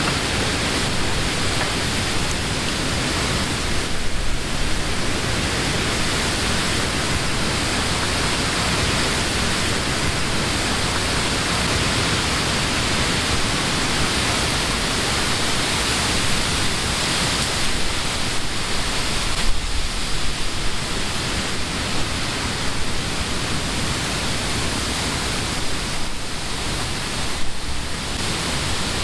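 Summer wind blowing through the leaves of trees: a steady rustling hiss, with a few brief stronger gusts.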